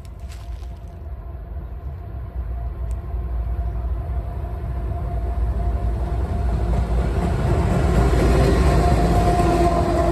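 Diesel-hauled freight train approaching, its locomotive engines and rumble growing steadily louder, with a steady droning tone that strengthens near the end.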